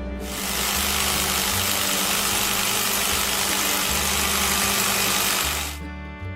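Engine running steadily with a low pulsing rumble, fading out about six seconds in.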